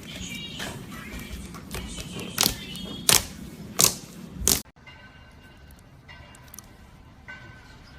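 Slime being squeezed and poked, giving a run of sharp pops and crackles, about five loud ones. Just past the middle it cuts off abruptly to a quieter stretch of soft small clicks.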